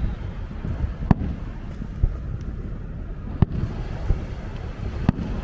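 Fireworks going off: sharp bangs about a second in, near the middle and near the end, over a steady low rumble.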